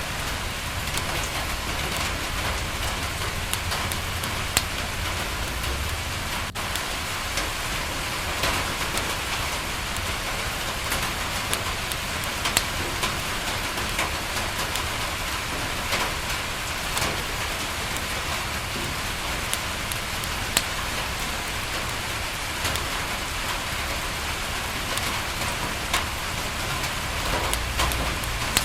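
Steady rain falling on a window, with a wood fire crackling: scattered sharp pops and snaps over the even hiss of the rain, and a low rumble underneath.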